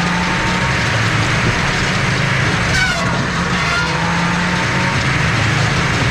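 Eastonmade firewood processor running steadily under load, its engine and hydraulics droning while the circular saw cuts a log to length and the splitter works.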